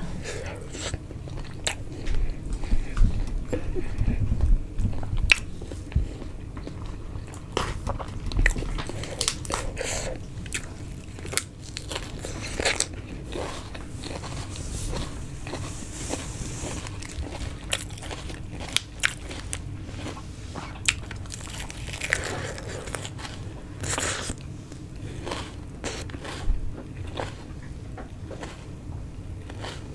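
Close-miked eating: biting into and chewing roast tandoori chicken, with scattered sharp clicks and small crunches.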